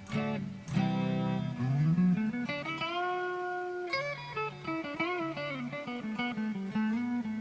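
Harley Benton SC-500 Les Paul-style electric guitar played through Overloud TH3 amp simulation: a couple of strummed chords, then a note that glides up in pitch and is held with vibrato, followed by more picked notes.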